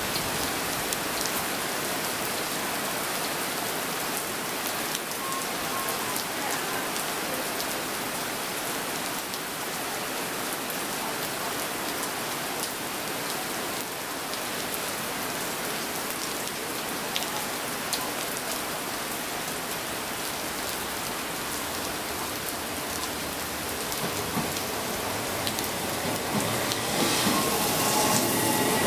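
Heavy rain falling on the station platform and tracks: a steady hiss with many small drop taps. Near the end an East Rail Line electric train draws close, and its rising rumble and faint whine join the rain.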